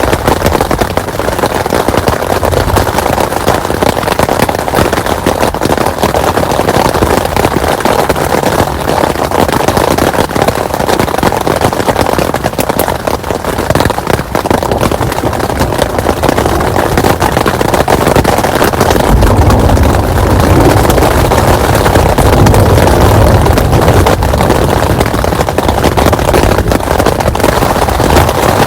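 Heavy rain pouring down, a dense crackle of drops striking. About two-thirds of the way in, a deep rumble joins it and carries on.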